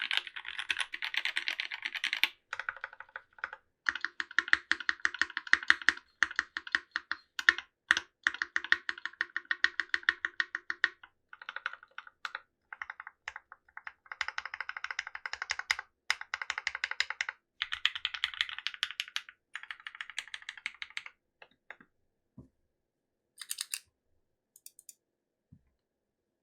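Typing on a Linworks Whale75 custom mechanical keyboard with Gateron Merlot switches and GMK Bingsu keycaps, built without foam. The keystrokes are rapid and clacky, with short pauses, and thin out to a few scattered key presses after about 21 seconds.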